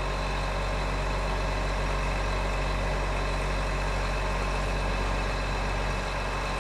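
Case IH MX245 tractor's diesel engine idling steadily with an even, unchanging pitch.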